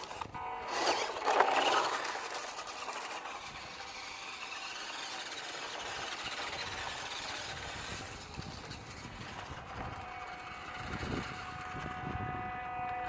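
Small electric motor of a WPL D12 1/10-scale RC drift truck whining as it drives, with tyre noise; loudest about a second in, with a steady whine near the end.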